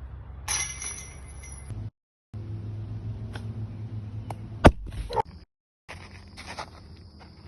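Disc golf discs striking the metal chains of a basket, the chains clinking and jingling in several short bursts. The loudest is a sharp clank about two-thirds of the way through, all over steady outdoor background noise.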